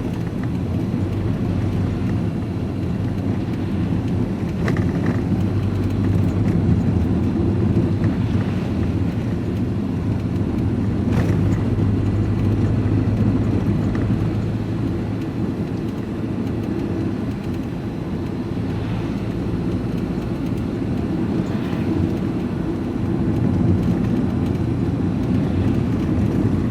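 Diesel vehicle driving along at a steady pace, heard from inside the cab: a constant low engine drone with road and tyre noise, and a single sharp click about eleven seconds in.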